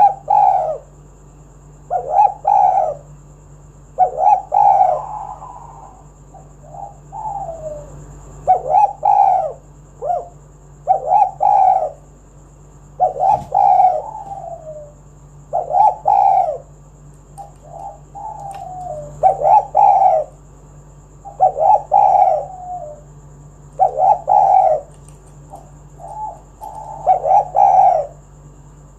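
Spotted dove (tekukur) cooing over and over, a short phrase of coos repeated about every two seconds.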